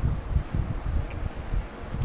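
Hands massaging a person's upper back, heard as soft, muffled rubbing and irregular dull thuds of pressing on the skin.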